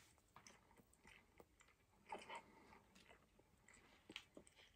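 Faint chewing of a soft, wet surimi fish-ball snack, with small scattered mouth clicks and a slightly louder chew about two seconds in.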